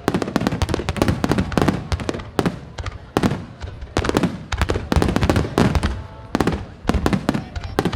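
Aerial fireworks shells bursting in a dense barrage: sharp bangs and deeper booms overlapping, several a second, with echoing tails.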